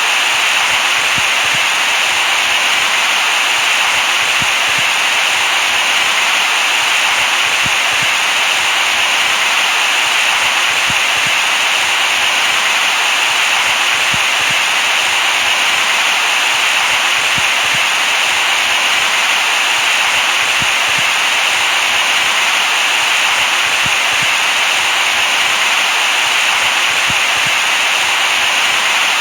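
Steady white noise: an even, unbroken hiss, brightest in the upper middle range, at a constant level.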